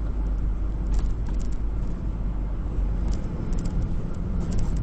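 Steady low rumble of a road vehicle driving, with a few faint ticks over it.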